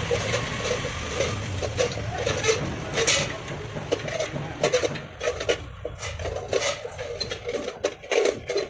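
Stick welding arc crackling and sizzling steadily with irregular sharp pops, as the electrode burns on steel square tube.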